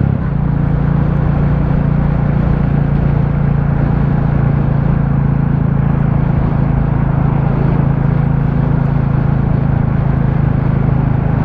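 Royal Enfield Classic 350's single-cylinder engine running steadily at constant speed while riding, with an even rush of wind and road noise over it.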